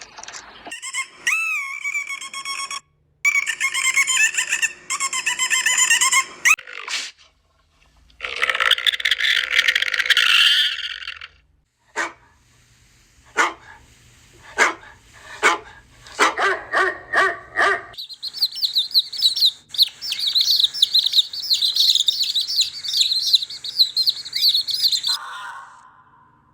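A string of different animal calls, one after another: long wavering calls at the start, then a run of about seven short dog barks, then a long stretch of high, rapid bird-like chirping.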